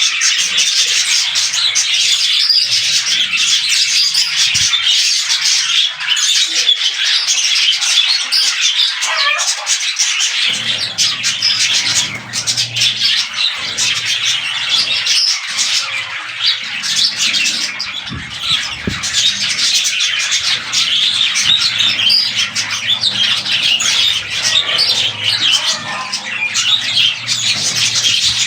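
Budgerigars chirping and chattering in a dense, unbroken warble with short squawks.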